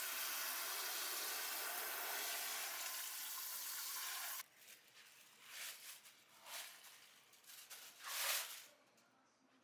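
Water running steadily from a tap, shut off abruptly about four seconds in, followed by a few short noisy sounds, the loudest near the end.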